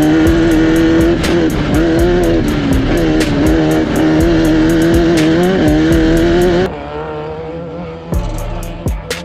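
Off-road race car engine running, its pitch rising and falling as the throttle is worked, mixed with a music track that has a steady beat. About two-thirds of the way through the engine sound drops out and the quieter music carries on.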